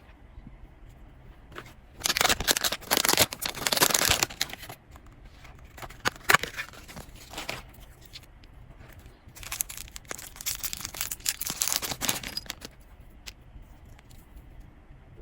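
Blind-box packaging being torn open and crinkled by hand, in three rustling, crackling stretches with short pauses between them.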